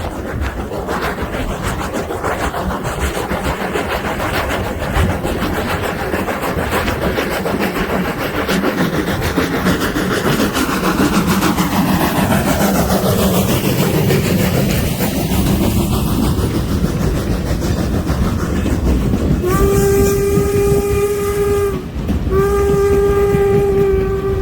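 Norfolk & Western 475, a 4-8-0 steam locomotive, running with its train, the rumble and clatter growing louder as it comes close. Near the end its steam whistle blows two long chime blasts.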